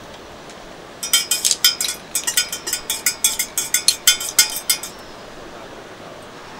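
A metal spoon stirring milk tea, clinking rapidly against the side of a cup, about five clinks a second. The clinking starts about a second in and stops about four seconds later.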